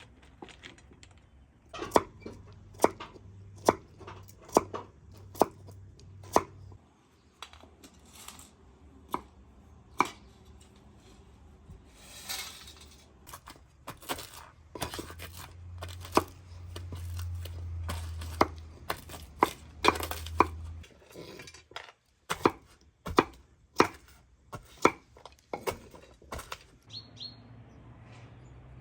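Knife chopping on a cutting board: sharp, separate knocks about once a second, coming closer together about halfway through.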